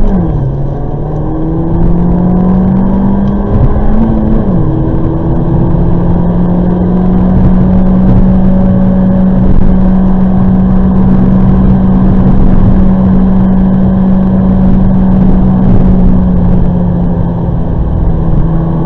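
Peugeot 208 GTi's turbocharged 1.6-litre four-cylinder engine heard from inside the cabin, accelerating hard through the gears. The engine note drops with an upshift right at the start, climbs again and drops with another upshift about four and a half seconds in, then holds a steady note at high cruising speed over loud tyre and road noise.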